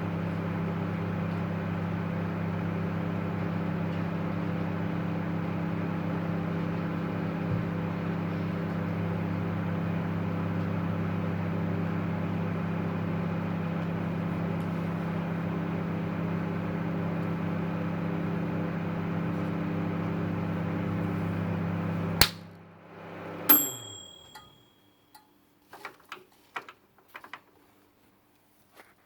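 Microwave oven running with a steady hum. About three-quarters of the way through it stops with a click, and a second later a single short high beep sounds. A few light clicks and knocks follow.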